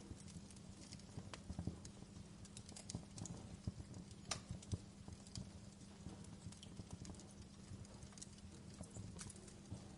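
Wood fire crackling in a fireplace: irregular small snaps and pops, a few sharper ones, over a faint steady low hum.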